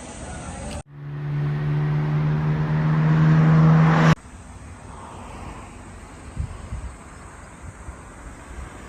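Vehicle noise in edited pieces: a steady engine hum that grows louder for about three seconds and cuts off abruptly, then quieter, even road noise with a few low thumps.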